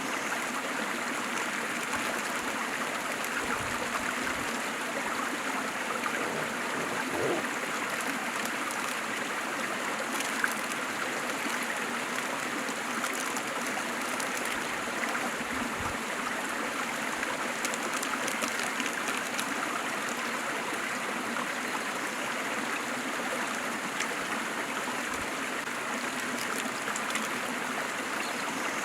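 Waterfall: a steady rush of falling water, light and hissy with little deep rumble. There is one brief click about ten seconds in.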